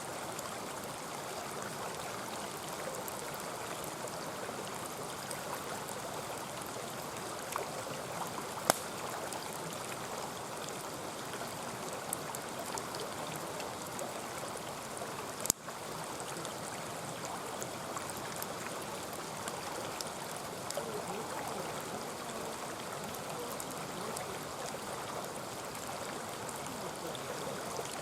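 Mountain stream flowing and babbling steadily, with a few isolated sharp clicks.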